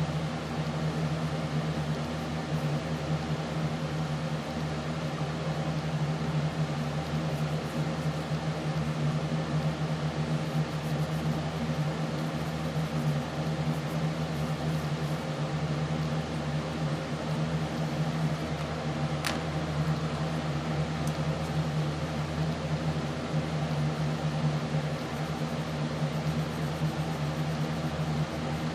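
Steady mechanical hum with an even hiss, and one sharp click about two-thirds of the way through.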